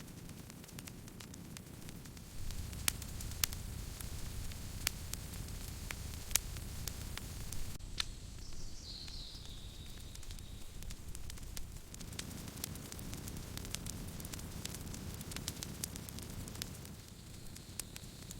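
Campfire crackling: sharp pops and snaps of burning wood over a low, steady rumble of flames, with a brief high whistle about halfway through.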